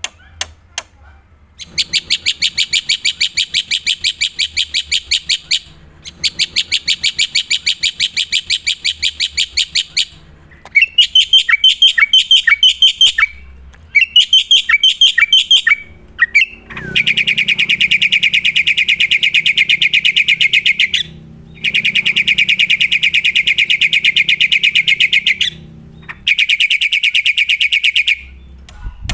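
Black-winged myna (jalak putih) singing in full voice: long phrases of very fast, rattling repeated notes several seconds each, separated by short pauses, with a stretch of sharply falling notes in the middle.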